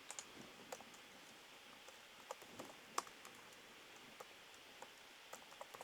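Faint computer keyboard typing: scattered soft key clicks, with one sharper click about three seconds in.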